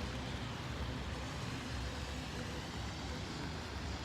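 Steady low rumble of vehicle engine noise at an even level, with a faint steady hum in it.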